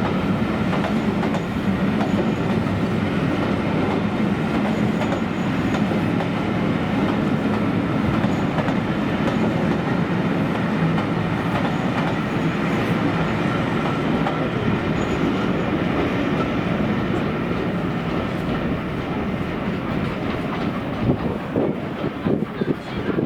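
A train running past with a steady rolling noise of wheels on rails, which becomes less even near the end.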